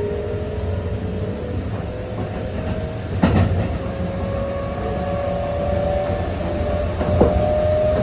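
Mitsubishi GTO-VVVF inverter and traction motors of a Keikyu 600 series train heard from inside the car: a whine rising slowly and steadily in pitch as the train accelerates, over the rumble of the running gear. Two sharp knocks sound about three and seven seconds in.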